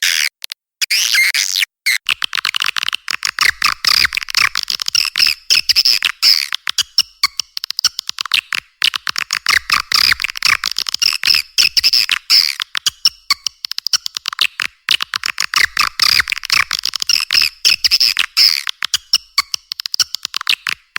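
Recorded swiftlet lure call played for a swiftlet house: a dense, continuous stream of rapid high chirps and twitters of edible-nest swiftlets, many per second, with nothing in the low range and a couple of brief gaps in the first two seconds.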